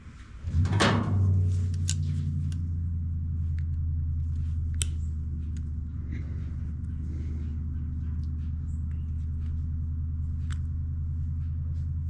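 A steady low mechanical hum that starts abruptly about half a second in and holds an even pitch, with a few light clicks over it.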